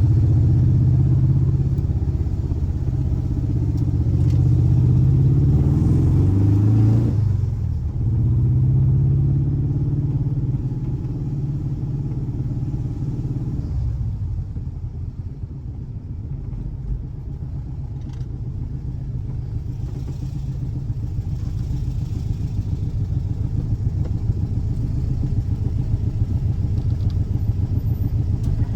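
Air-cooled 1584cc flat-four boxer engine running. It is loud at first, drops off sharply about seven seconds in, and settles lower before building gradually again near the end.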